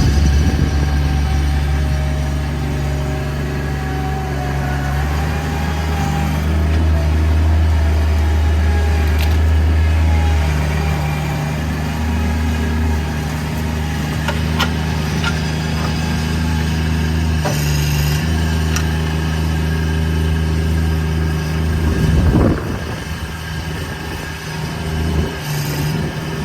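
Bobcat MT100 mini track loader's engine running steadily, its pitch shifting a few times as the backhoe attachment's hydraulics are worked.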